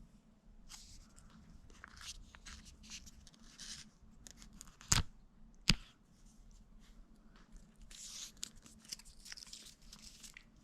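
Plastic treat packets of Delectables Squeeze Up crinkling and being torn open in several rustling bursts, with two sharp clicks about halfway through.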